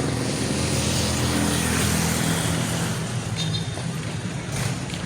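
A vehicle engine running steadily, with road and wind noise, heard from on board the moving vehicle.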